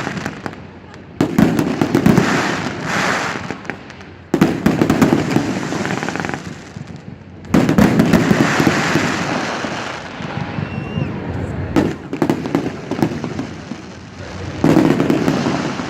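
Fireworks display: aerial shells bursting with loud booms and dense crackling. The main bursts come about a second in, at about four seconds, at about seven and a half seconds and near the end, each fading out over a few seconds.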